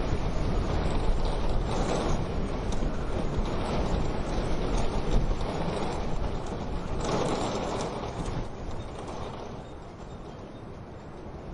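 Wind blowing over a low rumble, with the light crackle of a wood-burning stove. The wind swells twice and eases off near the end.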